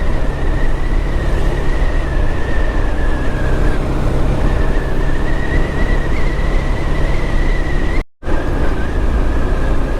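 Motorcycle riding on the road: steady engine drone with road and wind noise, and a thin steady whine above it. The audio drops out briefly about eight seconds in.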